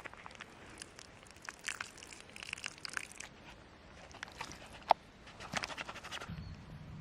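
Crunching and rustling of something being handled, with scattered clicks and one sharp snap about five seconds in; a low steady hum starts near the end.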